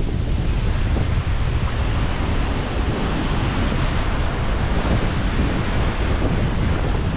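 Wind buffeting the microphone over surf breaking on a beach: a steady rushing noise with a heavy low rumble, the wash of the waves swelling a little midway.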